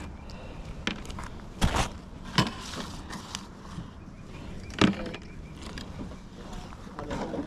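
Wooden beehive boxes and lids being handled: a few sharp knocks and clunks, the loudest near the start and about five seconds in, over a low, steady background.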